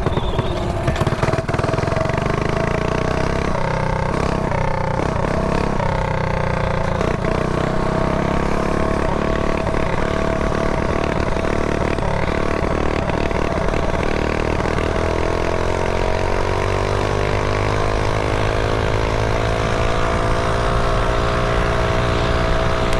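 Mini bike engine running while riding, a steady pitched drone with some unevenness in the first few seconds, then its pitch climbing slowly through the last several seconds as the bike speeds up.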